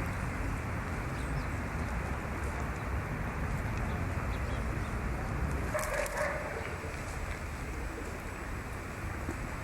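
Steady outdoor background noise, with a brief bird call about six seconds in.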